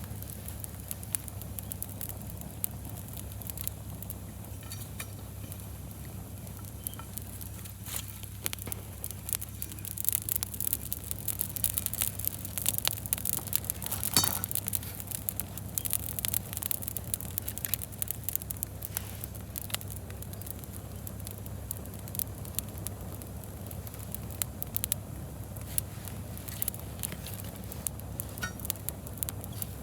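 Wood fire crackling, with many small sharp snaps that grow busier in the middle and one louder pop near the middle, over a steady low hum.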